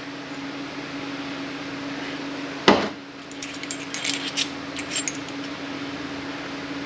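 Metal automatic-transmission parts being handled on the bench: one sharp knock a little under three seconds in as a part is set down, then a short run of light metallic clinks.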